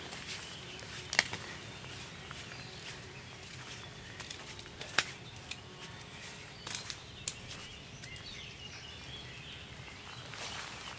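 Quiet outdoor garden ambience with a few scattered sharp clicks and faint bird calls.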